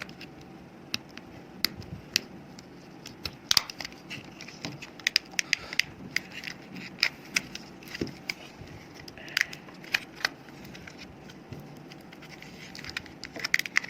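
Plastic casing of a laptop battery pack being pried apart, cracking and clicking irregularly as its joins give.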